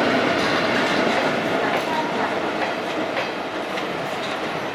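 Express train's coaches and a trailing tank wagon rolling past at speed, wheels clattering over rail joints with sharp clacks. The sound fades as the end of the train moves away.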